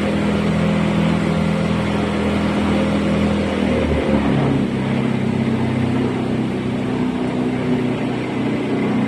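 A boat's engine running steadily under way, its note shifting to a lower, different pitch about four seconds in.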